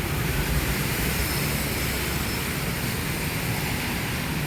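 Rain falling steadily, an even hiss over the continuous low rumble of road traffic.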